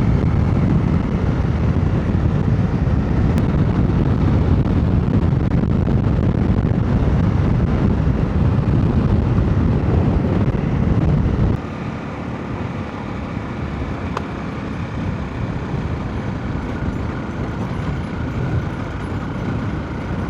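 Motorcycle running at riding speed, a steady low rumble with a faint steady tone above it. The low rumble drops away suddenly a little over halfway through, and the ride continues more quietly.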